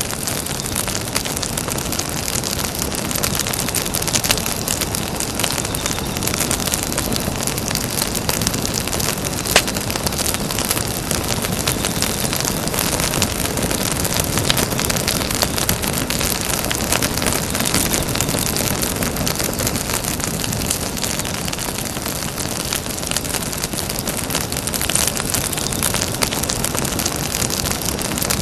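Campfire burning steadily, its wood crackling with a dense run of small snaps and an occasional louder pop, the sharpest about ten seconds in.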